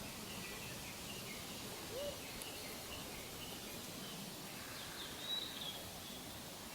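Faint open-air background with scattered high chirps of small birds, and one faint, short rising coo call about two seconds in from a distant Japanese macaque.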